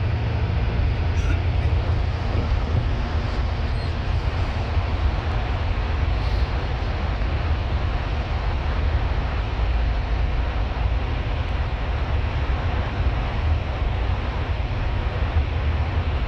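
A bus on the move: a steady, deep engine rumble with even road and tyre noise, unchanging throughout.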